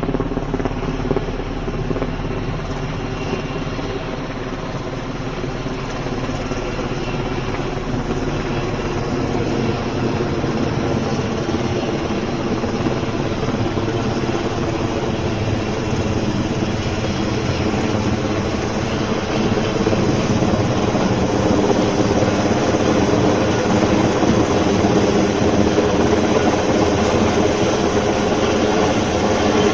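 Sikorsky UH-60 Black Hawk helicopter flying close by with a slung load of cedar poles. Its rotor and twin turboshaft engines make a steady drone that grows gradually louder.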